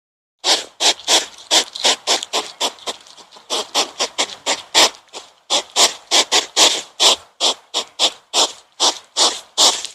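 An animal making rapid, breathy, rasping sounds, about three a second, in a steady run that starts about half a second in.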